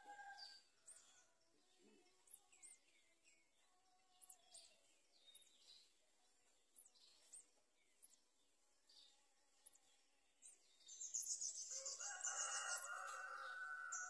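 Faint, scattered high chirps of small birds, about one a second, then a louder, drawn-out bird call about eleven seconds in lasting some three seconds, like a rooster crowing.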